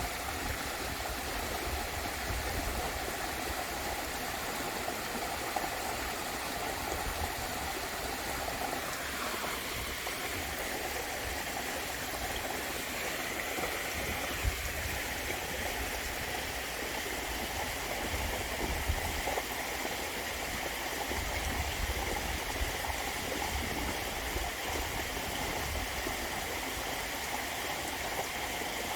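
Water falling and running steadily over a waterfall into a stream, a continuous rushing splash. About nine seconds in, its tone shifts brighter and higher.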